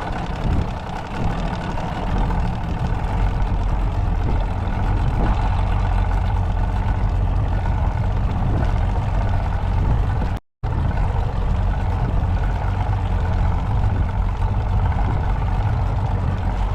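Motorboat engine running steadily while the boat is underway, a dense low rumble with rushing wind and water noise over it. The sound cuts out for a moment about ten seconds in.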